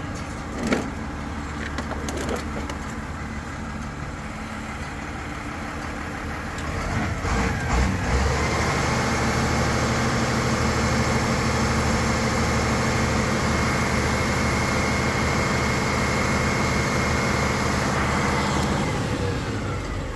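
Crane truck's engine running, with a sharp click shortly after the start. About eight seconds in it steps up to a higher, steady speed with a whine, as the crane's hydraulics work the lift, and drops back near the end.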